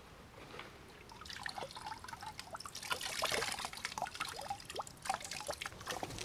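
Water trickling and dripping, with many small plips and a brief louder splashing pour about three seconds in.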